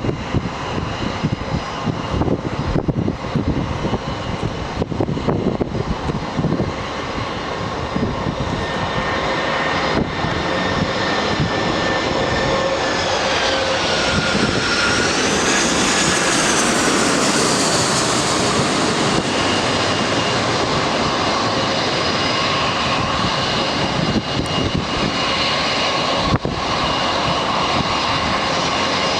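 Jet airliner's engines running loud as the plane passes close by, a steady roar with whining tones that bend down in pitch and back at the loudest point, about halfway through. Before that, an uneven rumble.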